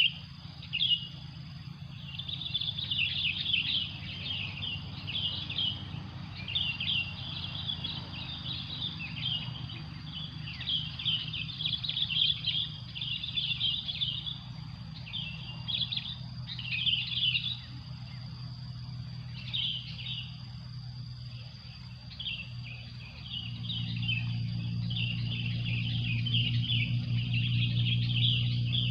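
Small birds chirping in repeated bursts of quick, high chirps, over a faint steady high insect-like drone. A low hum grows louder near the end.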